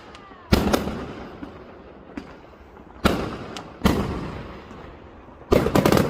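Fireworks exploding: a loud bang about half a second in, two more at around three and four seconds, then a quick run of cracks near the end. Each bang trails off in a fading rumble.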